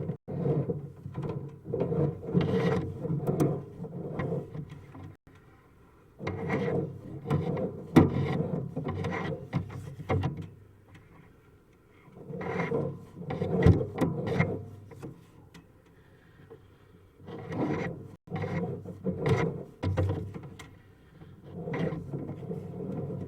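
Sewer inspection camera and its push cable being drawn back through a drain pipe, scraping and knocking against the pipe walls in stretches of a few seconds with short pauses between them.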